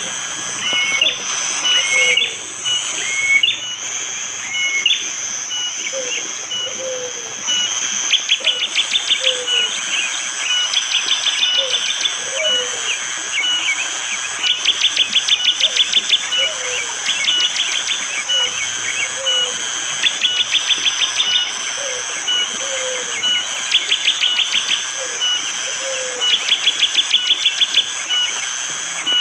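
Bar-winged prinia (prenjak jali) giving its hard, sharp rapid-fire "tembakan" call: rattling trains of quick ticks, each about a second long, repeated every couple of seconds. Other birds give short repeated whistled notes and lower slurred calls over a steady high hiss of forest sound.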